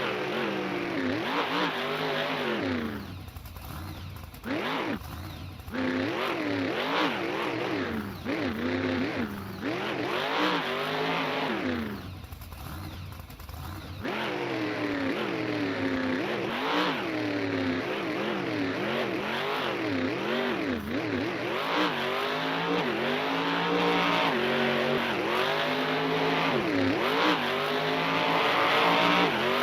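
Monster truck engine revving hard again and again, its pitch sweeping up and down. There are short quieter lulls about four and thirteen seconds in.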